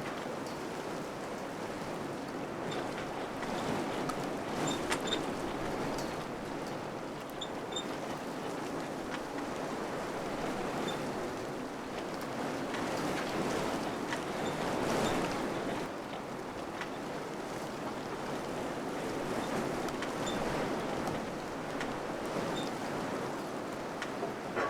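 Wind blowing in gusts, a steady rushing that swells about four seconds in and most strongly around the middle, then eases.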